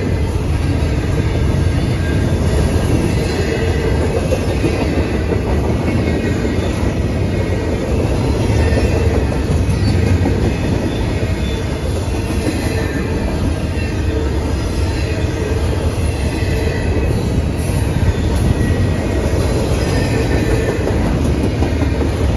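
Double-stack intermodal freight train's well cars rolling past, steel wheels on rail making a steady, deep running noise.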